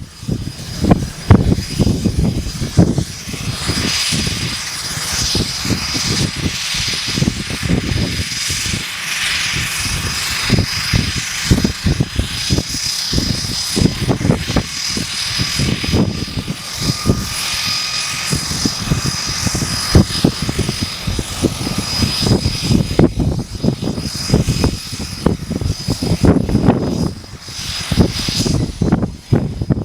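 The two PT6A turboprop engines of a DHC-6 Twin Otter starting up and running, with a steady high turbine whine over heavy, irregular low buffeting.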